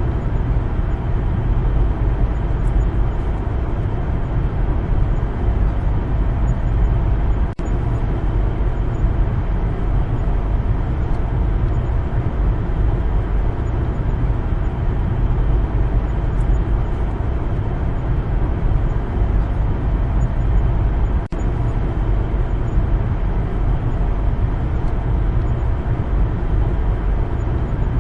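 Steady road and engine noise of a car driving, heavy in the low end, broken by two momentary dropouts.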